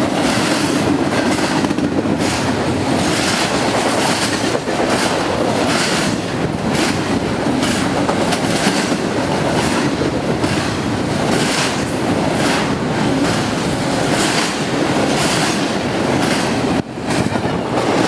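CSX intermodal freight train rolling past at speed: a steady rumble of passing cars with wheels clacking over rail joints, and a brief drop in loudness near the end.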